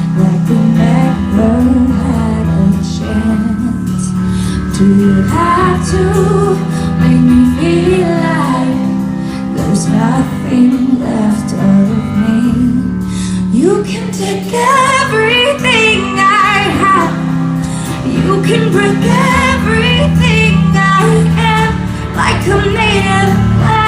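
A woman singing a slow ballad live over sustained instrumental accompaniment, climbing to higher, wavering held notes about halfway through.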